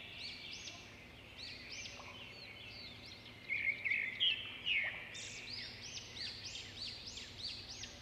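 Small birds chirping: many short, quick rising-and-falling calls overlapping, a little louder between about three and five seconds in, over faint steady background noise.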